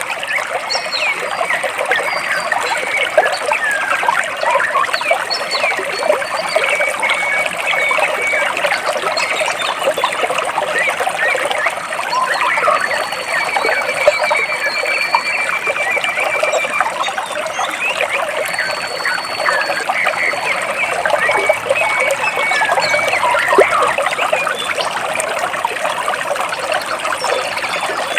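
Stream water trickling and splashing steadily between rocks, with birds chirping throughout and a few longer trills over it.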